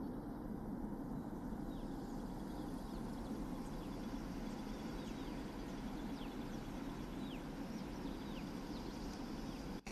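Birds calling with many short, falling chirps over a steady low rumble.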